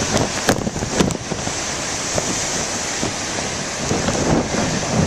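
Heavy ocean surf breaking, with wind buffeting a microphone wrapped in a plastic bag. A couple of brief crackles come about half a second and a second in.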